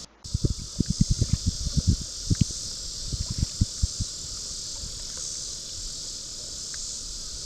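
Steady high-pitched insect chorus, with a quick run of low thumps through the first few seconds that thin out later.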